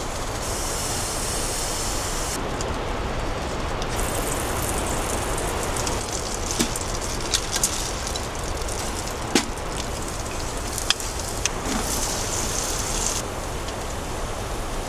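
Potatoes frying in butter, sizzling in a pan on a hot-tent stove, the hiss swelling and easing in stretches, with a few sharp clicks. A steady low rumble of wind runs underneath.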